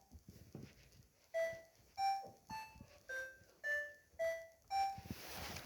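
Maytag washing machine's electronic control panel playing a short tune of beeping tones, about two notes a second at changing pitches, starting after about a second of quiet. A steady hiss comes in near the end.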